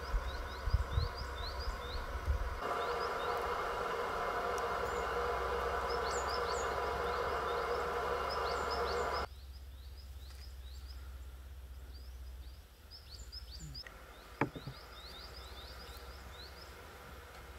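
Small birds chirping over and over in short, high chirps. A steady rushing noise lies under them from about three seconds in and stops suddenly about nine seconds in, and a single brief knock comes near the end.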